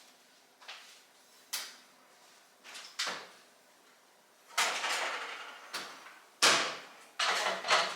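Kitchen handling sounds: a series of sharp knocks and sliding scrapes, like a cooking appliance's door or drawer being opened and things moved about inside it. The loudest knock comes about three quarters of the way through.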